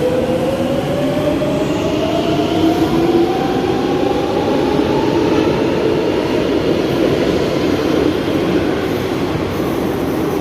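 Madrid Metro train accelerating, a whine rising steadily in pitch over the first several seconds and then levelling off, over a loud, steady rumble of the train on the rails.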